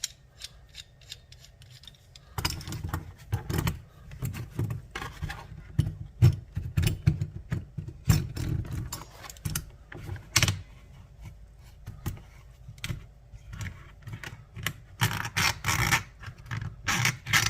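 Irregular clicking, rattling and scraping of a small cordless chainsaw being handled, its lock and chain-adjusting parts worked by hand.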